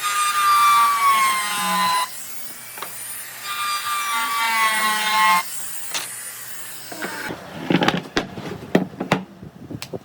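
An electric power tool cutting wood in two passes of about two seconds each, its whine dropping in pitch under load and cutting off sharply. A string of sharp knocks and clatter follows near the end.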